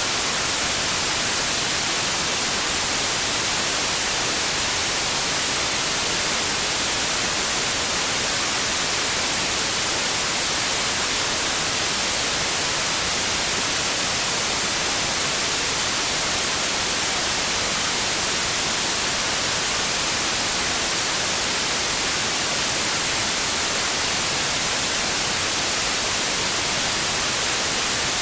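Steady white noise: an even, unbroken hiss, brightest in the treble, with no change in level or pitch.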